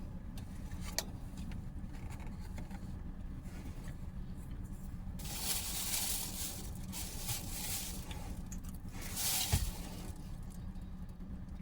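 A person eating a soft egg salad sandwich, with quiet chewing and two brief noisy rustles about six and nine seconds in, over a steady low hum.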